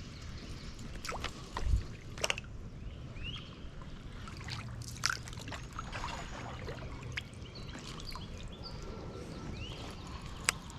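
Water dripping and trickling, with a few sharp light knocks scattered through and short birds' chirps.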